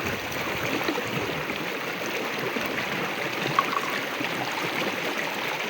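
River water flowing steadily, a constant rush of running water.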